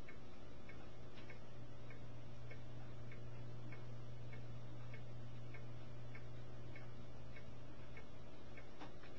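Regular ticking, about one and a half to two ticks a second, over a steady low hum.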